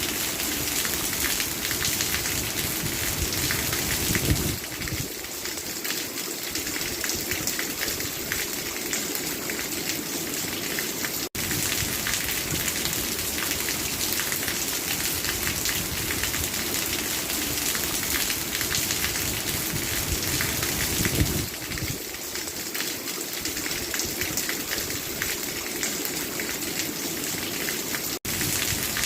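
Steady rain falling, an even hiss with a dense patter of drops. It swells briefly and then softens a little about four seconds in and again about twenty-one seconds in, and it cuts out for an instant twice.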